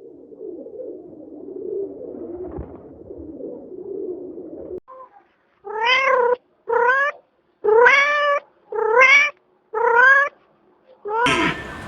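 Domestic cat meowing six times in a row, about once a second, each meow rising and then falling in pitch. The meows are preceded by a low, rough sound lasting about five seconds.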